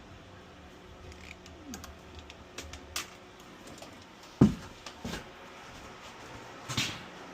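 Irregular light clicks, then a few louder knocks, as of small hard objects being handled and set down.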